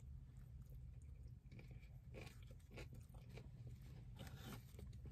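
Faint chewing of a bite of a breaded fried chicken burger, with soft crunches of the crispy breading now and then.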